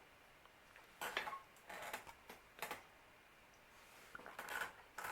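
Scattered faint clicks and light knocks, like small things being handled, in a small room.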